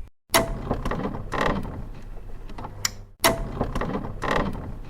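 Mechanical clattering and creaking, heard as two similar passages, each starting abruptly.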